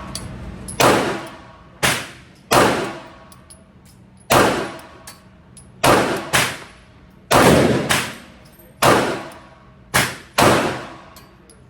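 Pistol-calibre gunshots in an indoor shooting range: about ten shots at irregular intervals, some in quick pairs. Each shot is sharp and loud, with a long ringing echo off the range walls.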